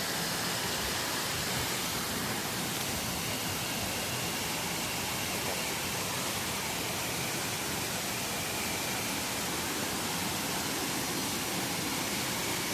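Waterfall pouring steadily into its pool, a constant rushing of water.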